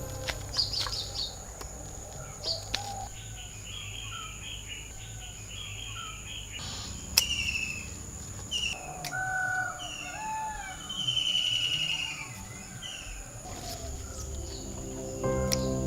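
Several birds chirping and calling in short, repeated trilled phrases over a faint steady high-pitched hum, with one sharp click about halfway through.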